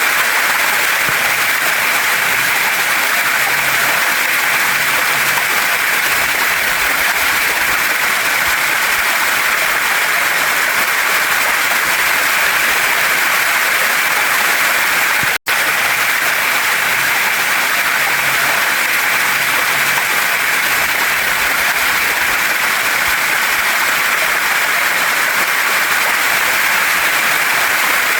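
Waterfall and stream water rushing over rocks: a steady, dense hiss that is strongest in the upper-middle range. It cuts out to silence for a split second about halfway through.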